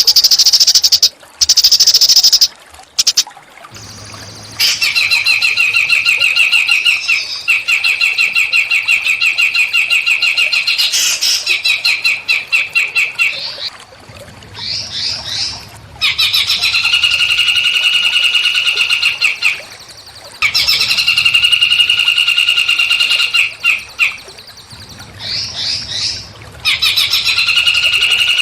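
Small songbird singing rapid buzzy trills of fast-repeated notes, in phrases of two to four seconds with short pauses between them and a few quick rising chips in the gaps. The first few seconds hold a loud, high hissing buzz that starts and stops abruptly.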